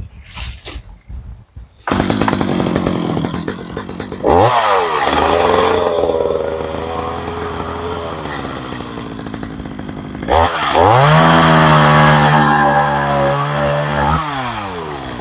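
A small engine running, revved up twice to a high steady speed, about four seconds in and again about ten seconds in, each time easing back, and winding down near the end.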